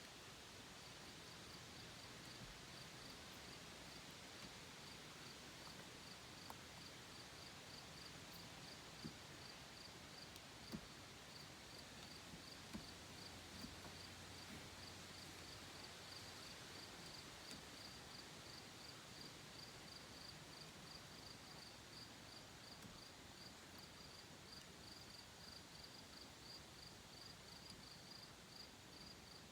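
A cricket chirping faintly, a steady, even run of high chirps, over a quiet background hiss with a few faint clicks.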